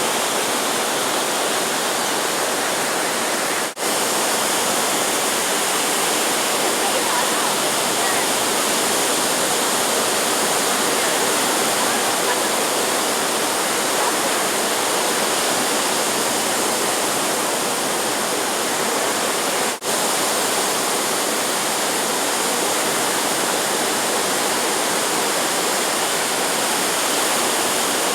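Steady roar and hiss of ocean surf breaking, an even wash of noise with no distinct events, briefly dropping out twice, about four seconds in and about twenty seconds in.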